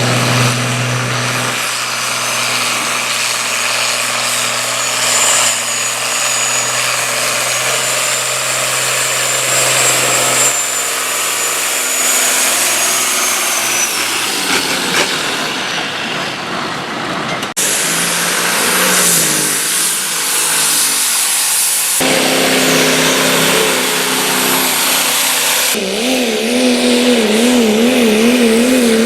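Pulling engines running hard under load in several short clips cut one after another. One has a high whistle held for several seconds, and another has a pitch that wavers up and down near the end.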